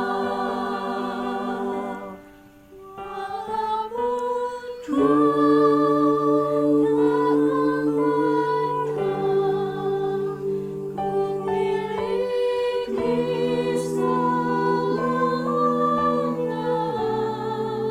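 A choir singing slow, sustained chords in several parts. The voices thin out and drop away about two seconds in, then come back fuller with low voices entering about five seconds in.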